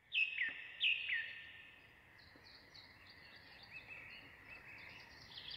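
Birds chirping: two pairs of short, falling whistled notes in the first second or so, then a fainter chorus of many small, high chirps.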